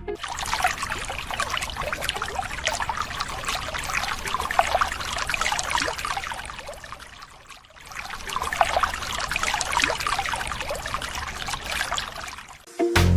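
Water trickling and pouring, in two stretches with a brief lull about halfway through.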